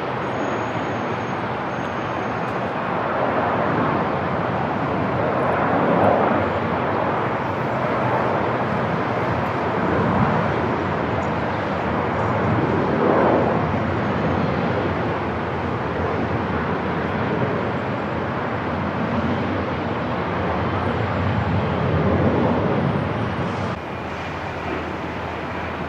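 Airport ambience: a steady wash of aircraft engine noise that swells and eases several times, then drops abruptly a little before the end.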